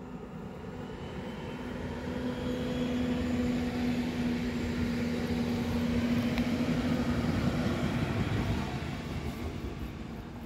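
Passenger multiple-unit train passing close by: its running noise and a steady droning hum grow as it approaches, stay strongest for several seconds, then fade near the end as it moves away.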